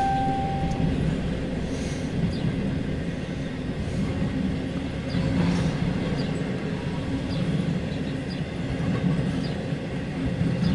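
Freight train rolling past at steady speed: a continuous rumble of cars on the rails.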